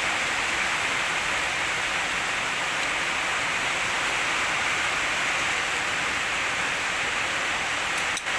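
Water jet from an H&L QL-1200 high-pressure washer spraying steadily, a dense even hiss like heavy rain, briefly interrupted near the end.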